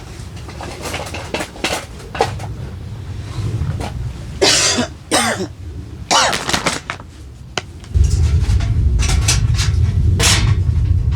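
A person coughs twice in quick succession about halfway through, among small clicks and clinks of dishes. About eight seconds in, a loud, steady low rumble sets in.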